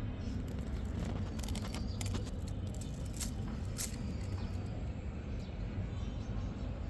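Steady low rumble and hum of outdoor background noise, with a handful of short, sharp clicks or chirps in the middle.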